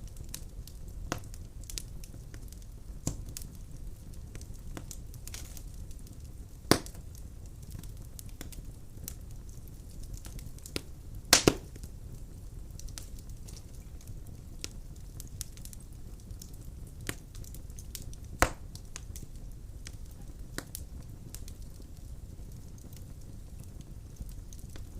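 Wood fire in a fireplace crackling, with a steady low rumble of the flames and scattered sharp pops of burning firewood; the loudest pops come at about 7, 11 and 18 seconds in.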